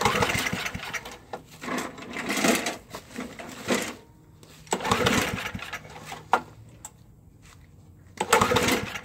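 Toro 421 snowblower engine cranked by its recoil pull-starter about five times, each pull a short burst of turning over without the engine keeping running: the fuel valve is still shut.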